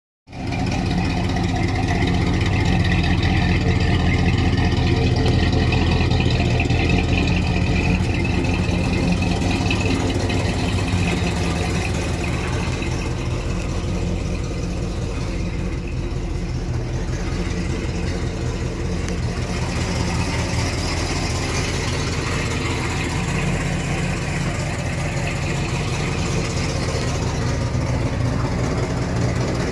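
1971 Mercury's V8 engine idling steadily.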